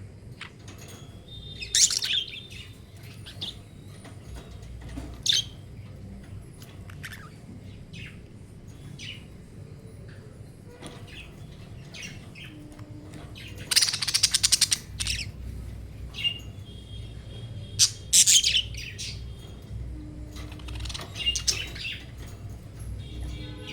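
Budgerigars chirping and chattering in short, scattered bursts, with a fast run of rapid calls near the middle and louder chirps about two seconds in and a few seconds after the middle, over a steady low hum.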